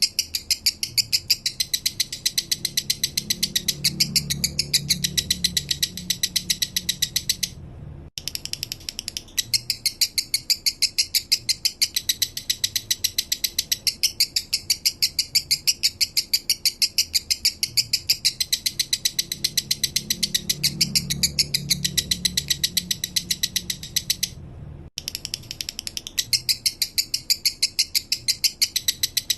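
Male lovebird singing a 'minor' song: a long run of fast, evenly spaced high chirps, several a second, that breaks off briefly twice.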